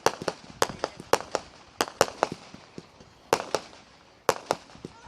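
Fireworks going off: a rapid, irregular run of sharp bangs, roughly three a second, with brief lulls near the end.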